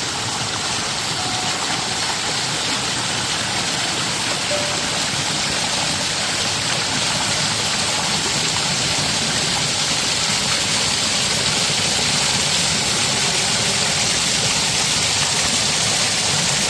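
Mountain stream water rushing over rocks, a loud, steady hiss with no break.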